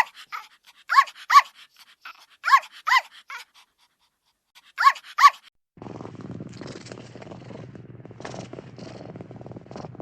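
A dog barking in pairs of short, sharp barks, three pairs over about five seconds. About six seconds in a low, steady rumble takes over.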